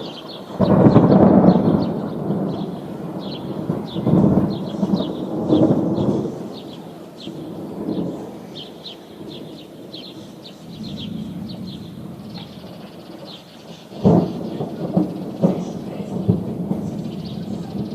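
Thunder: a loud peal breaks about half a second in and rolls on, swelling again a few seconds later before dying away, then a second sharp crack about three-quarters of the way through rumbles on with crackling.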